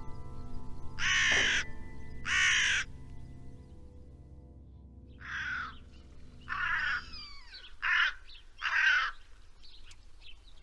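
A bird giving six loud, rasping calls of about half a second each: two close together early on, then four more from about five seconds in. Soft sustained music runs beneath and fades out about seven seconds in.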